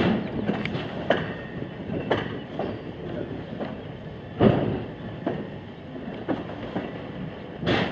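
Railroad passenger car rolling on the track, with irregular clanks and clacks from the running gear. A louder clank comes about halfway through and another near the end.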